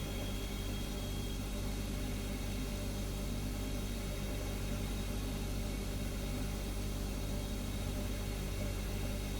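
Refrigerator humming steadily, a constant low drone with a layer of even hiss. A faint high whine fades out about a second and a half in.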